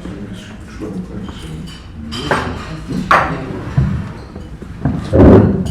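Hotel breakfast room ambience: a low murmur of conversation under a string of sharp clinks and knocks from dishes, cutlery and chairs. The loudest is a heavier clatter about five seconds in.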